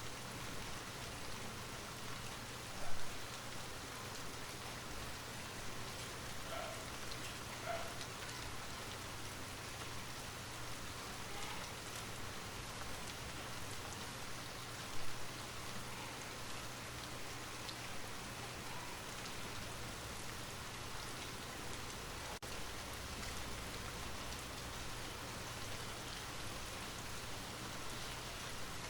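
Light rain falling steadily: an even hiss with scattered drops tapping. Two louder single drips or splats stand out, about three seconds in and again about halfway through.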